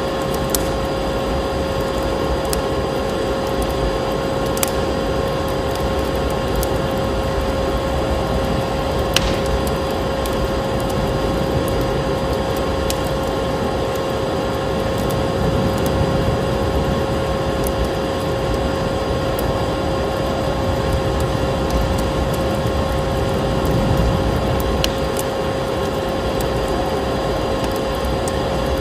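Vacuum cleaner motor running steadily, a constant hum with a whining tone over its airflow rush. A few sharp crackles of a wood fire are mixed in.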